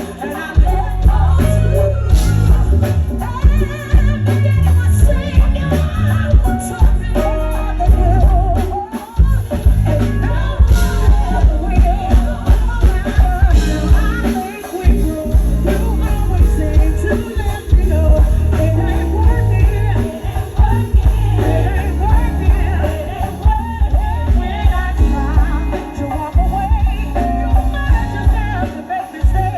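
Live band music with a strong, steady bass beat and a singer's voice running melodic runs over it.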